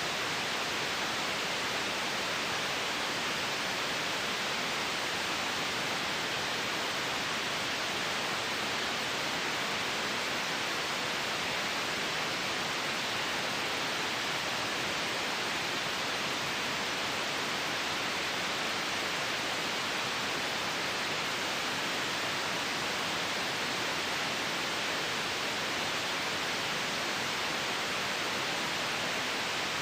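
Steady white-noise hiss for sleep, an even, unchanging rush with most of its energy in the upper-middle range and little bass.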